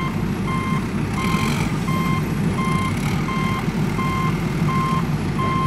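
Truck reversing alarm beeping steadily, about three beeps every two seconds, over a steady low engine rumble.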